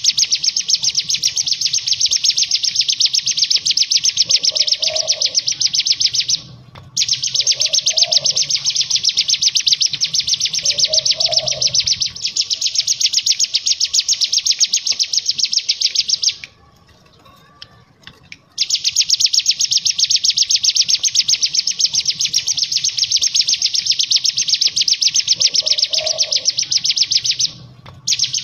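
Cigun singing its 'ngebren' song: a very fast, high, buzzing trill held for several seconds at a stretch. It breaks off briefly about six seconds in, stops for two seconds around the middle, and breaks again near the end. A few soft, lower short notes sound underneath.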